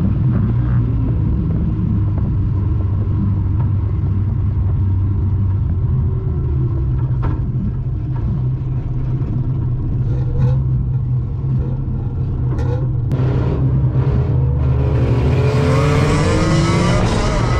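Morris 1100 banger car's BMC A-series four-cylinder engine heard from inside the stripped cabin, running with a steady low drone, with several sharp knocks around the middle, then revving up with the pitch climbing near the end.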